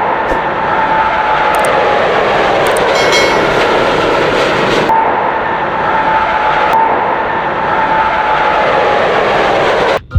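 A rubber-band-powered model plane's propeller whirring, with a faint tone that sinks slightly as the rubber unwinds. It is heard in a few short clips that cut abruptly about five and seven seconds in.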